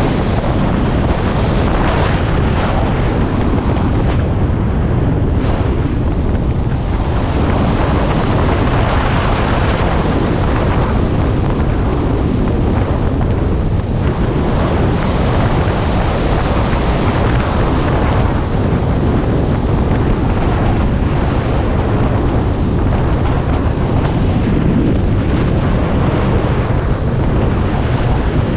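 Loud, steady wind noise buffeting the microphone of a motorcycle riding at speed, a Harley-Davidson Iron 1200, with the ride's engine and road noise blended in beneath.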